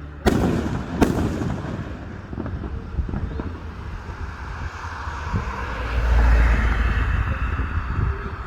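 Fireworks display: two sharp aerial shell bangs about a second apart right at the start, followed by crackling and a deep low rumble that swells about six seconds in.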